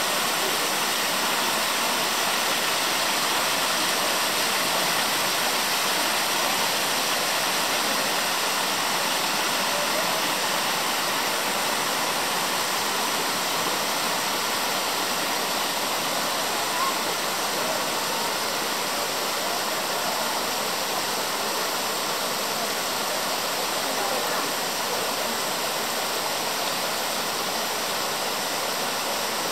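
Waterfall pouring steadily, a continuous rushing roar of falling water.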